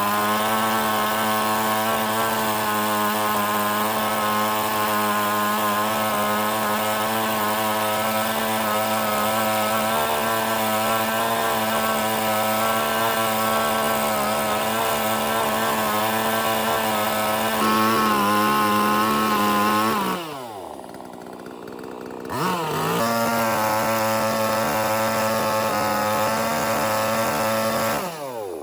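A power tool's motor running at a steady high speed. About twenty seconds in it is switched off and winds down, starts up again about two seconds later, and winds down once more near the end.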